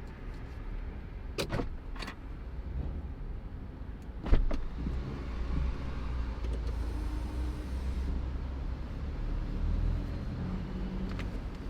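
Inside a Porsche 718 Spyder: a steady low rumble from the moving car, broken by a few sharp clicks, with a louder knock about four seconds in.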